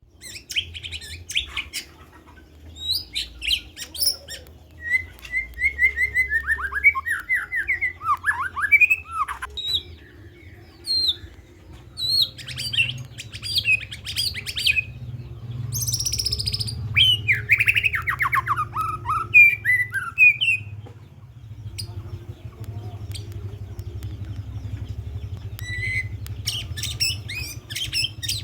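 White-rumped shama (murai batu) singing vigorously, pouring out its learned repertoire: bursts of fast trills, sweeping whistles and chattering phrases separated by short pauses, with a quieter spell about three quarters of the way through before the song picks up again near the end.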